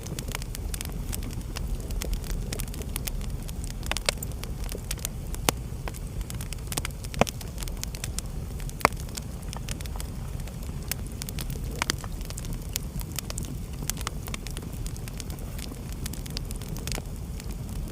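Wood fire burning in a fireplace: a steady low rumble of the flames with irregular crackles and sharp pops, a few louder snaps in the middle.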